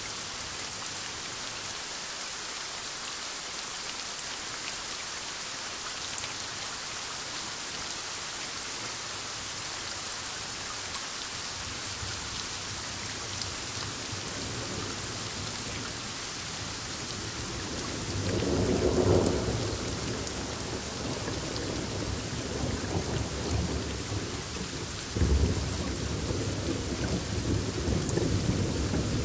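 Thunderstorm with steady heavy rain. A roll of thunder swells and fades past the middle, and a second peal breaks sharply near the end and rumbles on.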